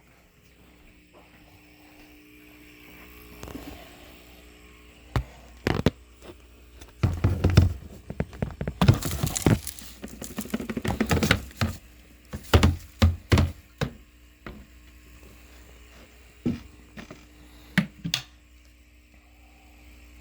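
Plastic clicks, knocks and thunks from handling a Dirt Devil multi-surface vacuum's dust cup while it is emptied, with the vacuum switched off. A busy run of knocks and rattling comes in the middle, then a few scattered clicks.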